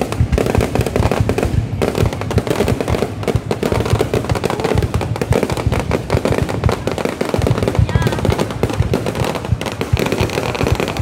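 Aerial fireworks barrage going off without a break: a dense, fast run of bangs and crackling bursts.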